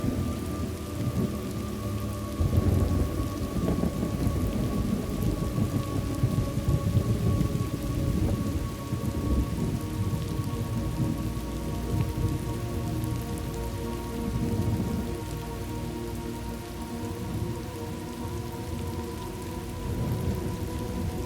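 Thunderstorm ambience: steady rain with low rolling thunder, the rumbling heaviest a couple of seconds in and easing after about eight seconds.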